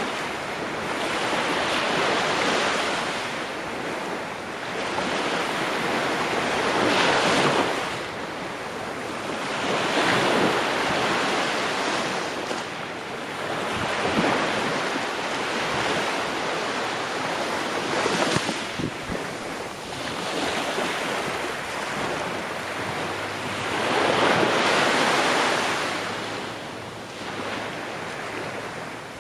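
Ocean waves breaking and washing ashore, a surge of surf swelling and fading every few seconds.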